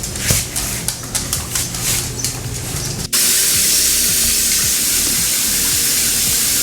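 Scattered clicks and scuffs, then about three seconds in a shower sprayer starts abruptly and runs as a loud, steady hiss of water spraying on a dog in a tub.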